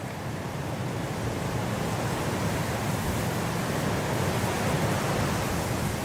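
Blizzard wind blowing in a steady rush of noise, a gust building over the first few seconds and easing slightly near the end.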